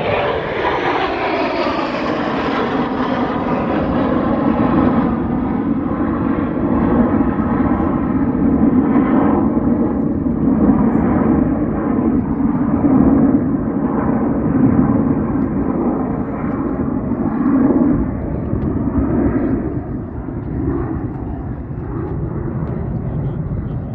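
Airplane engine noise from a low pass: the pitch drops over the first couple of seconds, then settles into a loud, steady drone that cuts off abruptly near the end.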